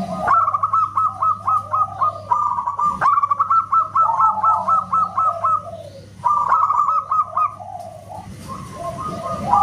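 Zebra dove (perkutut) cooing: fast runs of short, clipped notes at one pitch, broken by brief pauses, over a steady low hum.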